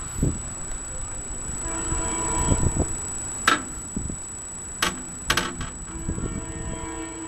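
A SEPTA regional rail train's horn sounding a held multi-note chord twice, faint at first, as the train nears. Wind buffets the microphone at the start, and there are a few sharp clicks in the middle.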